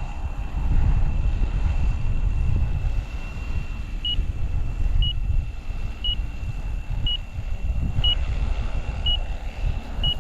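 Small electric SAB Goblin Fireball helicopter in flight, its motor and rotor giving a steady high whine, with wind rumbling on the microphone. From about four seconds in, a short beep sounds once a second.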